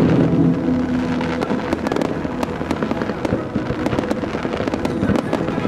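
Fireworks going off: many sharp cracks and bangs from rising comets and bursting, crackling stars. Music plays faintly beneath, clearer near the start.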